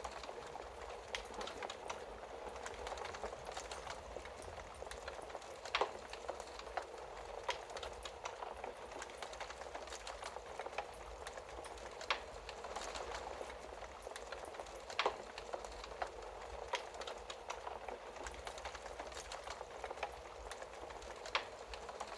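Wood fire burning in a fireplace: a steady hiss and flutter of flames with irregular crackles and sharp pops of burning logs.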